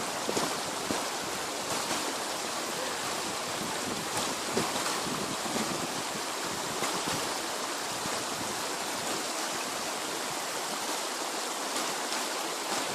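The Zhane, a shallow mountain river, rushing over rocks in a steady, even rush of water.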